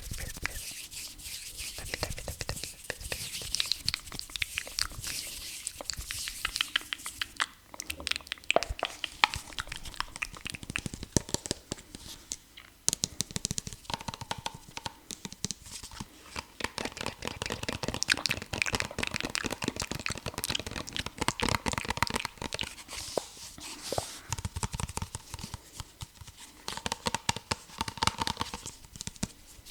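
ASMR tapping: rapid, dense tapping mixed with crinkly scratching, many quick clicks a second, easing briefly about seven and twelve seconds in.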